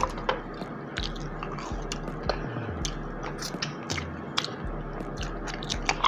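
A person chewing and biting food close to the microphone: irregular sharp clicks and wet mouth sounds, over a steady low hum.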